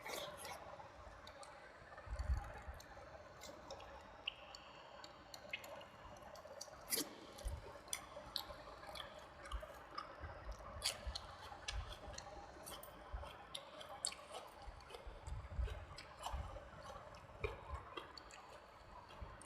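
Close-up wet chewing and lip smacking of a person eating soft rice and curry, with many short sharp mouth clicks and a few dull thumps.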